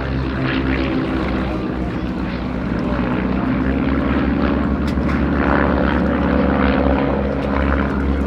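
Piston engines and propellers of de Havilland Chipmunk trainers flying overhead, a steady drone that grows a little louder toward the middle.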